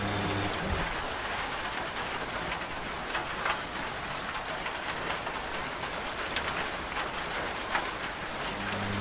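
Steady rain, with single drops striking a surface now and then. A washing machine's low, steady hum stops about half a second in and comes back near the end.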